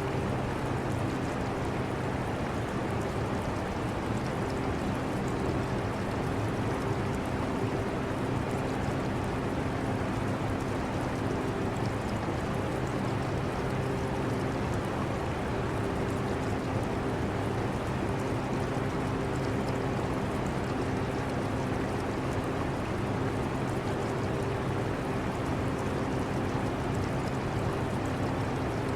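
Air conditioner running steadily with a low hum, mixed with the trickle and bubbling of aquarium water.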